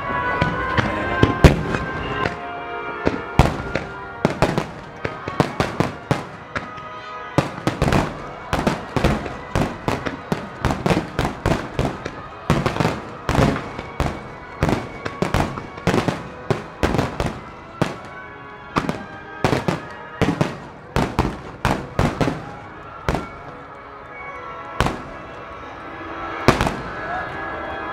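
Starmine fireworks barrage: aerial shells and fireworks bursting over and on the water in rapid succession, dozens of sharp bangs and crackles, thickest in the middle and thinning near the end. Music plays underneath throughout.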